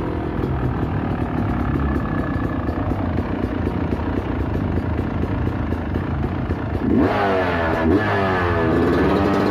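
Sherco 300 Factory Edition's single-cylinder two-stroke dirt bike engine running low and uneven, then revved in quick blips from about seven seconds in, its pitch rising and falling several times before holding higher near the end.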